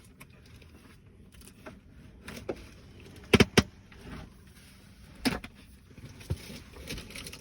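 Sharp clicks and knocks of equipment being handled and fitted into place. The loudest are a quick double click about three and a half seconds in and a single one a couple of seconds later.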